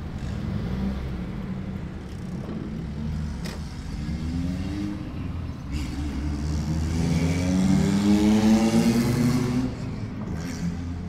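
Car engine running, then accelerating from about four seconds in, its pitch climbing steadily for several seconds before the revs drop off near the end.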